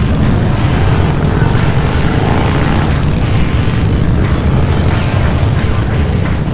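Motorcycle engines running with a loud, steady low rumble.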